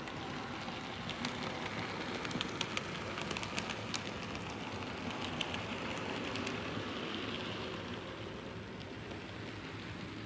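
Model train running on a layout's track: a steady rolling rumble of the locomotive and cars, with scattered sharp clicks of wheels over rail joints and turnouts.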